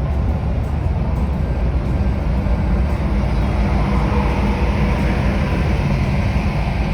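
Steady low rumble of a ferry's engines underway, with a rushing noise of wind and water that grows a little louder about halfway through.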